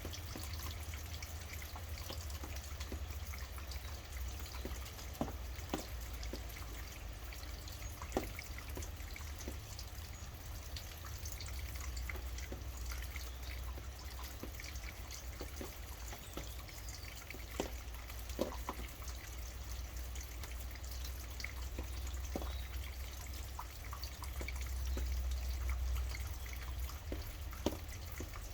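Steady rainfall with scattered heavier drops tapping irregularly, over a low rumble that swells near the end.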